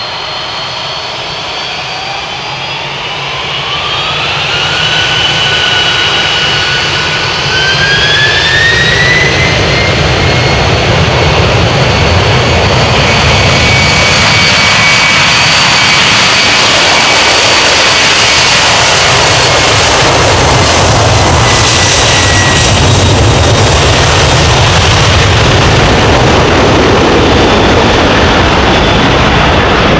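Boeing 767 turbofan engines spooling up for takeoff in two steps: a rising whine that holds, then rises again about eight seconds in. Under it a loud, steady jet rush builds and then stays at full power.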